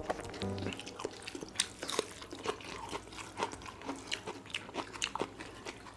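Close-up eating sounds: wet chewing and mouth smacking on rice and egg curry, heard as an irregular run of short clicks.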